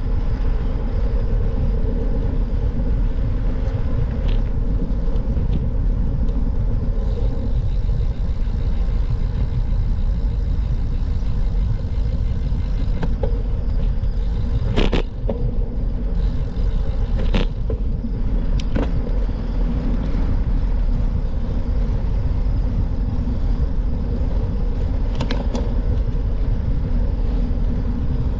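Steady low rumble of wind buffeting the microphone and tyre noise on a moving bicycle, with a few sharp clicks or knocks, most strongly about halfway through.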